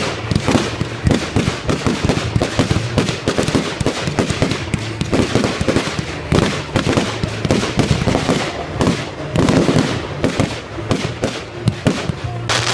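Fireworks display: a rapid, unbroken string of bangs and crackles.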